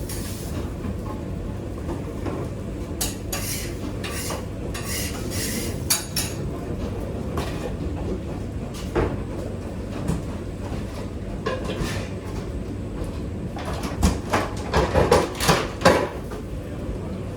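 Kitchen work: scattered clinks and knocks of utensils and dishes over a steady low hum, with a burst of louder clattering near the end.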